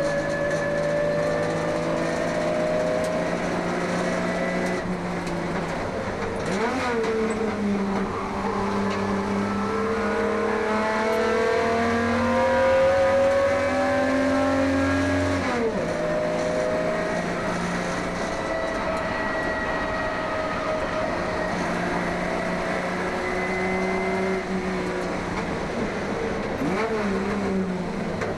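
1971 HQ Holden race car's six-cylinder engine at racing speed, its pitch climbing through the revs and dropping sharply at each gear change or brake, over tyre and wind noise.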